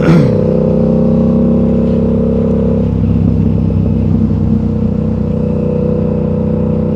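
Yamaha R7's 689cc parallel-twin engine running steadily under way, with a steady pitch; about three seconds in the higher part of the note fades.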